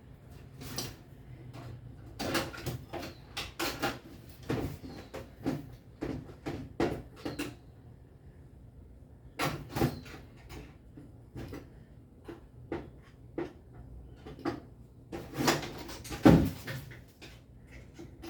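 Irregular knocks, clicks and rattles of objects being handled during hand repair work. They come in clusters, with a pause about halfway through and a sharp, louder knock near the end.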